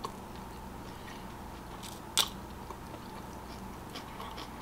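A person chewing a cheesesteak sandwich close to the microphone: a few soft mouth clicks, with one sharper click about two seconds in.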